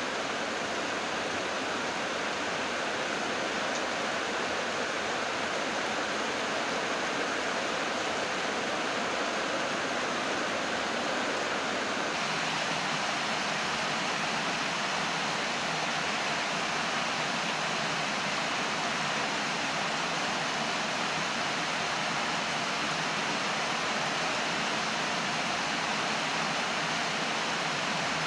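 Heavy rain pouring steadily, an even hiss with no thunder; about twelve seconds in the low part of the sound thins slightly.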